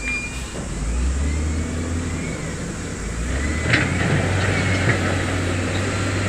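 Heavy construction machinery's diesel engine running with a deep, steady rumble that grows louder about a second in and again past the middle. High squeals rise and fall over it, and two sharp metallic clanks come near the middle.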